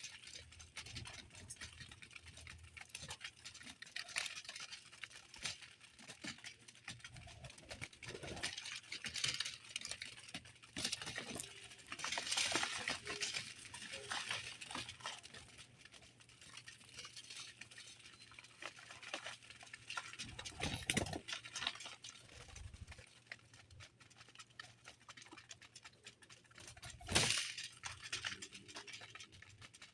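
Birds at a feeder: a busy patter of small taps, clicks and rustles from pecking and fluttering, with a couple of louder knocks, one about two-thirds through and one near the end.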